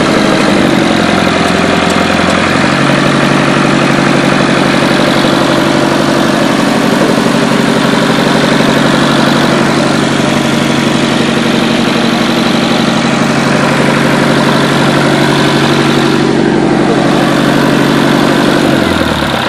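Tractor engine running steadily at idle without a battery fitted; its speed picks up a little about two and a half seconds in, and near the end it winds down and stops.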